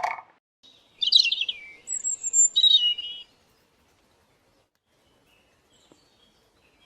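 A songbird singing one quick burst of rapid chirps and warbled trills, lasting about two seconds. A few faint chirps follow near the end.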